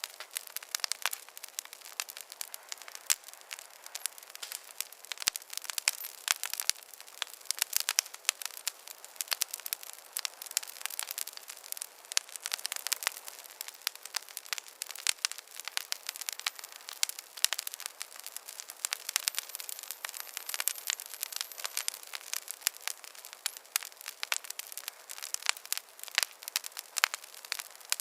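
Wood fire crackling in a fireplace: many irregular sharp pops and snaps over a steady soft hiss.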